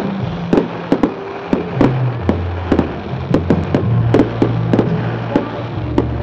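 Fireworks going off in a display: a quick, irregular string of sharp bangs, about two a second, over music with a steady bass line.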